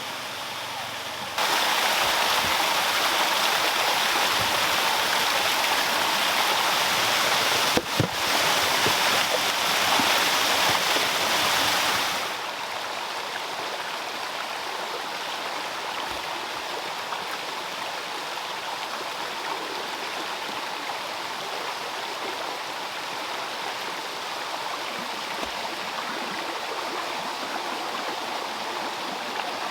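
Water falling and running steadily over a small handmade stone waterfall. It is much louder from about a second and a half in, drops back to a steadier, softer flow after about twelve seconds, and has one sharp knock near eight seconds.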